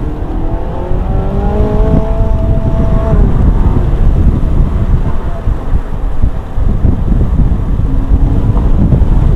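Ferrari 458 Italia's 4.5-litre V8 accelerating hard, its pitch climbing over the first three seconds. It then gives way to a loud, steady rush of wind and road noise.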